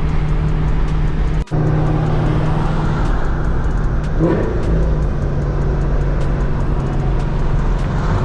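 Camaro ZL1's supercharged 6.2-litre V8 with a Corsa exhaust running steadily while cruising at low revs. There is a brief break in the sound about one and a half seconds in, and a short change in engine pitch about four seconds in.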